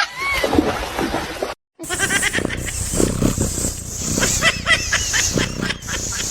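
Animal calls: a pitched call at the start, then after a brief break, a run of short, high calls repeated in quick succession.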